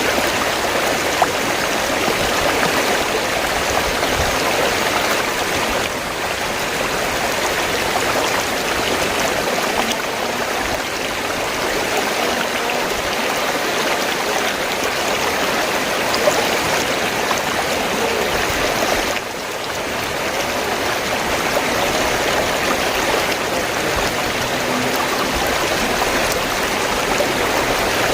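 River water flowing, a steady, even wash of running water with a slight dip in level about two-thirds of the way through.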